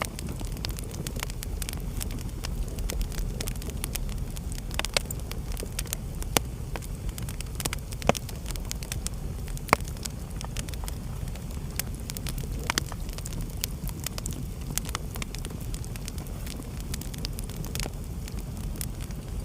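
Wood fire burning in a fireplace: a steady low rumble of flames with irregular crackles and occasional louder pops of the logs.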